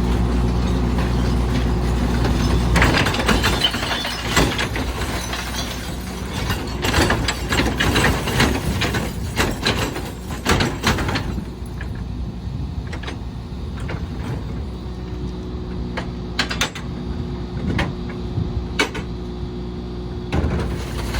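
Rear-loader garbage truck's engine idling steadily, then about three seconds in a run of clattering knocks and cracks for some eight seconds as trash is loaded and handled at the rear hopper. After that it goes quieter, with a few sharp knocks over the engine hum.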